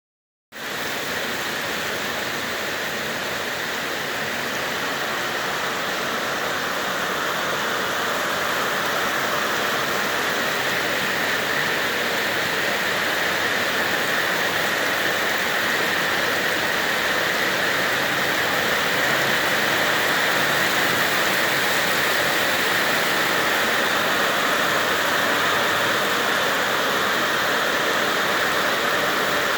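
Steady rain falling, an even hiss that slowly grows a little louder.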